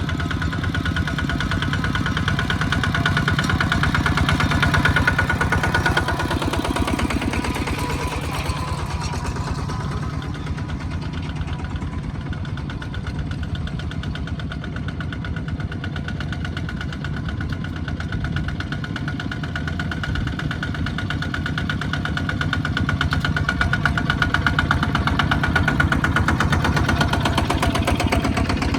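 Small farm tractor engines running with a rapid, even beat, growing louder twice as tractors come close.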